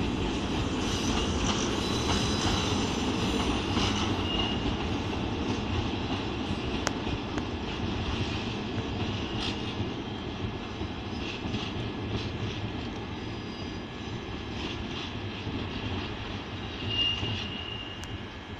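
BB 22200 electric locomotive and its VR2N double-deck coaches pulling out of the station and drawing away: a steady rumble of wheels and traction that slowly fades. A short high-pitched squeal comes about seventeen seconds in.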